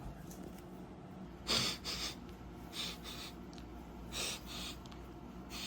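A person sniffing the air: a few short, hissy sniffs spread over a few seconds.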